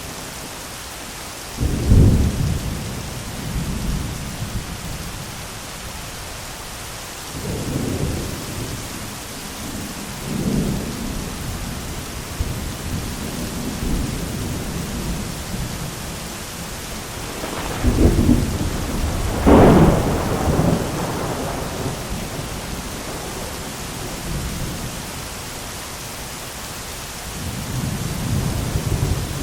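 Thunderstorm: steady heavy rain with repeated rolls of thunder. A sharp crack with a long rumble comes about two seconds in, and the loudest thunder, two cracks close together, comes about eighteen to twenty seconds in. Quieter rumbles swell in between.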